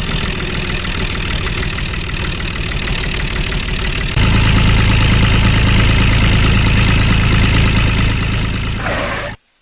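Small motor of a homemade model tractor running steadily under load. It gets louder and deeper about four seconds in, then cuts off suddenly near the end.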